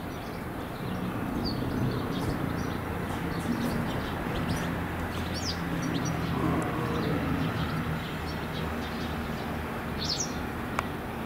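Outdoor ambience: a few short, high bird chirps now and then over a steady low hum, with a single sharp click near the end.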